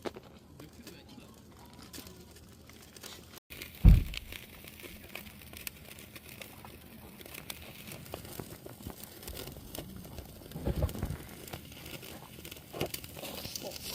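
Crinkling and rustling of material being handled, with scattered small clicks and a loud thump about four seconds in.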